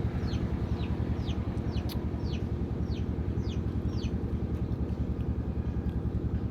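A bird chirping: short high chirps that fall in pitch, repeated about twice a second, over a steady low rumble.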